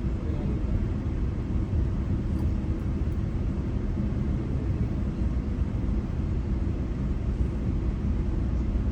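Steady low rumble of a GO Transit commuter train running between stations, heard from inside the coach: wheels on rails and the car body's running noise, even throughout.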